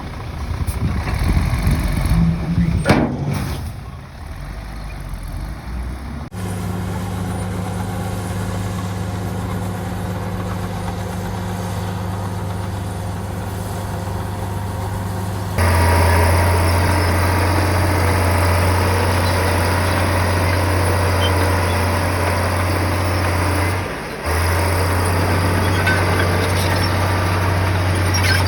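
Komatsu bulldozer's diesel engine running with a steady low drone, which steps abruptly to a louder, deeper drone about halfway through and dips briefly near the end. A single sharp noise stands out about three seconds in.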